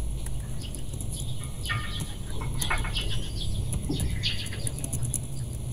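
Birds chirping several times in short high calls, over keyboard typing clicks and a low steady hum.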